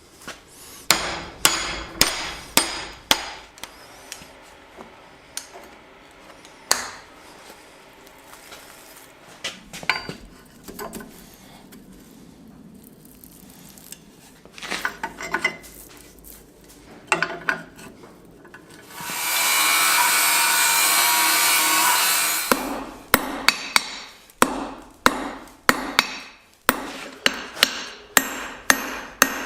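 Hand hammer striking hot steel on an anvil during hand forging. A few strikes come early, then sparse ones, and near the end a fast run of about two blows a second. In the middle, a loud steady rushing noise lasts about three seconds.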